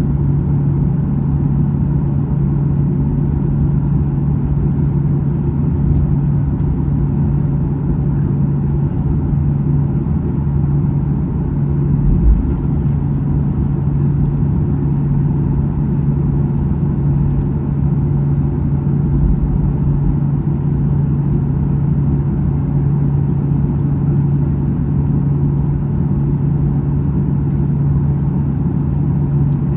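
Steady cabin drone of a Boeing 737-800 in flight: the CFM56 jet engines and the airflow, with a strong low steady hum. A brief low bump comes about twelve seconds in.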